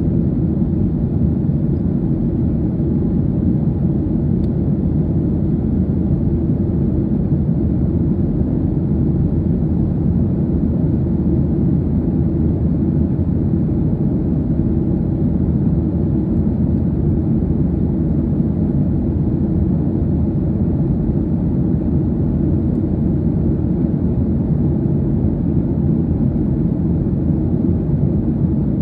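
Steady low rumble of a jet airliner heard inside the passenger cabin, an even noise of engines and airflow that does not change.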